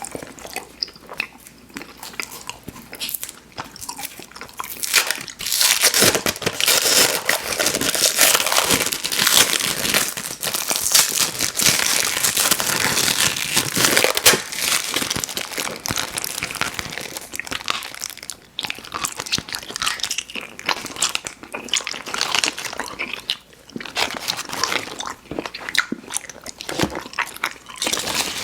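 Close-miked chewing of chewy fruit candy: sticky, wet smacking and clicking mouth sounds in quick succession, growing louder and busier about five seconds in and easing off again about halfway through.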